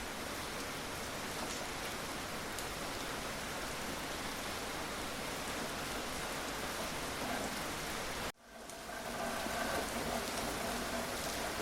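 Steady rain falling, an even hiss of rain on a surface. About eight seconds in it cuts out for an instant, then comes back a little louder.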